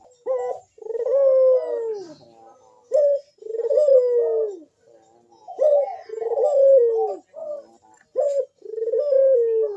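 Ringneck (Barbary) dove, the Indonesian 'puter', cooing repeatedly in full song: each phrase is a short note followed by a long, drawn-out coo that falls in pitch, about three phrases in all.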